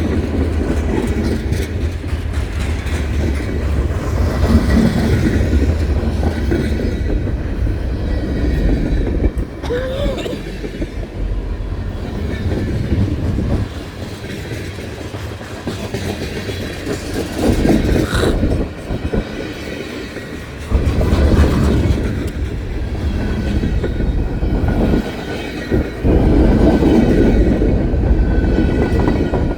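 CSX freight train cars rolling past close by, a steady rumble of wheels on rail that rises and falls in loudness as the cars go by, the train picking up speed.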